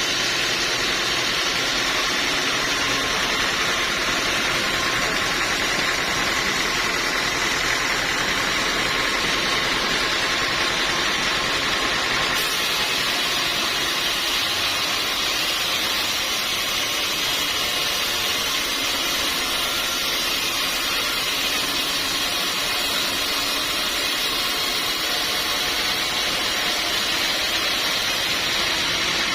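Sawmill machinery running steadily: a continuous, even hiss with no distinct knocks or rhythm, shifting slightly in tone about twelve seconds in.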